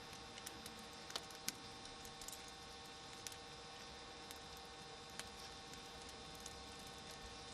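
Wood fire of reeds and vine stakes burning under a cooking pot: faint hiss with sparse sharp crackles and pops, a few seconds apart.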